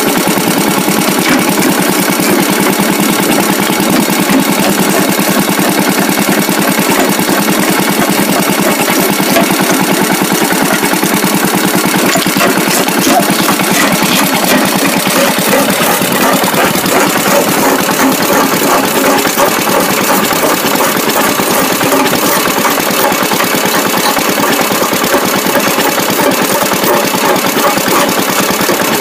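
Antique hit-and-miss engine running steadily, belt-driving a jaw rock crusher: a continuous loud mechanical clatter of rapid pulses.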